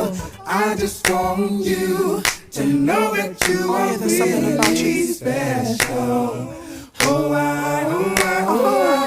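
Background music: a cappella singing, with sharp snaps keeping the beat.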